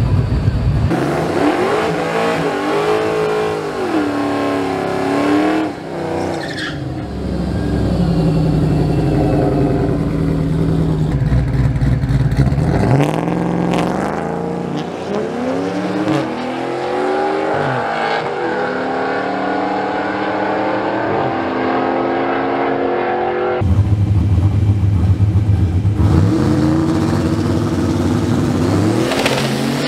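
Car engines revving and accelerating hard on a drag strip, their pitch climbing and dropping in steps through gear changes. The sound changes abruptly several times between different passes.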